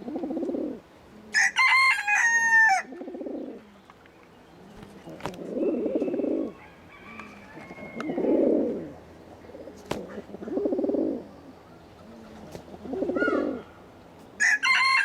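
Doves or pigeons cooing: six low coos about every two seconds. Twice, about a second and a half in and again near the end, another bird gives a loud, high, drawn-out call.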